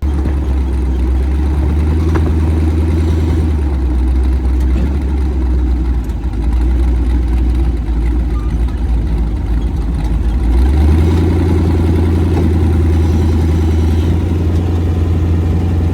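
Car engine and exhaust droning steadily under way, with a rapid even pulse over a deep hum; the drone steps up to a higher pitch about eleven seconds in.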